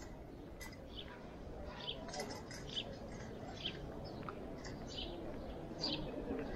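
Small birds chirping in short, high chirps roughly once a second, over a low murmur of distant voices and street noise.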